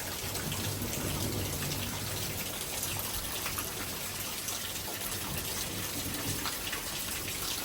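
Heavy thunderstorm rain pouring steadily: a dense, even hiss of falling water with scattered sharper drop impacts. Gusting wind runs through it, with a low rumble in the first couple of seconds.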